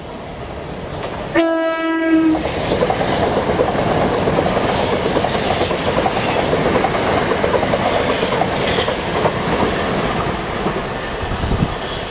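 A train sounds one short horn note about a second in, then runs through the station, its wheels and running gear rumbling loudly and steadily with a rail clatter.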